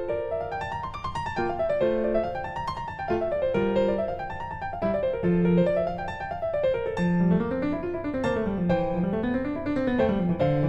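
Background piano music: rippling arpeggios that run up and down over a steady bass line.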